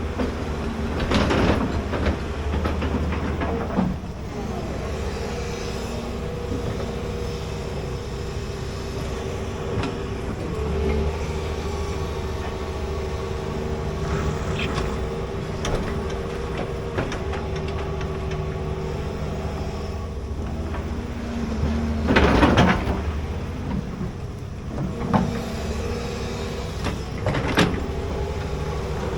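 Large excavator's diesel engine running steadily while digging. Several brief louder noises come from the work, the loudest about two-thirds of the way through.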